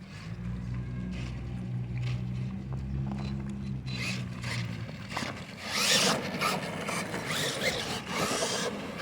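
Radio-controlled monster truck driving: a steady low motor hum for about five seconds, then rough scraping and rubbing of its tyres and body over the ground, in uneven surges.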